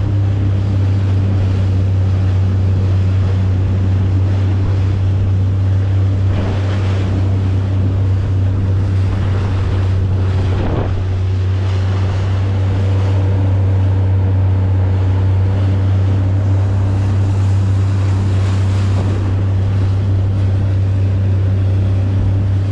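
Small boat's motor running at a steady, unchanging drone, with strong wind buffeting the microphone and water splashing against the hull.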